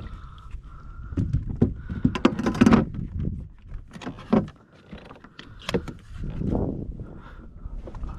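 Irregular knocks, thumps and clatter on a kayak while a freshly landed kahala is handled aboard.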